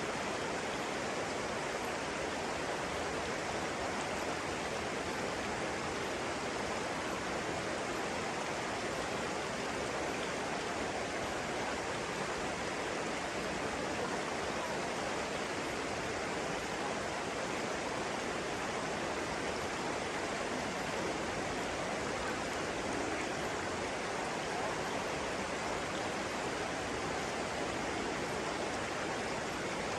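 Flowing water, a stream or small cascade, making a steady, even rushing.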